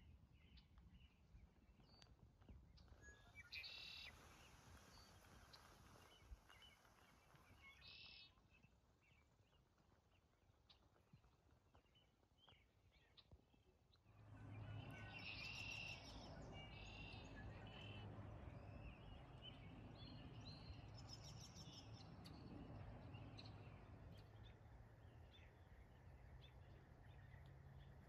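Faint evening birdsong: scattered chirps and short trills, over a low background. About halfway through, the background grows louder with a steady low hum, and more chirps sound over it.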